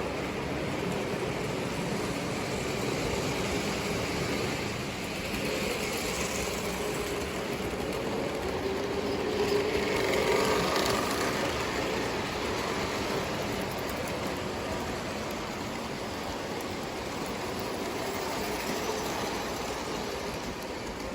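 Lionel O gauge toy train running on three-rail track: a steady motor hum and wheel-on-rail rumble, growing louder about halfway through as it passes close by, then easing off.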